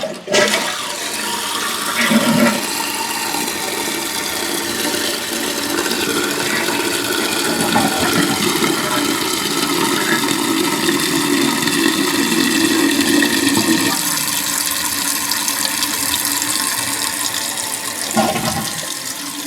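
Toilet flushing, then water rushing steadily for about eighteen seconds and fading near the end as the tank refills at full flow through the Fluidmaster fill valve, its slow fill cured by a new valve seal.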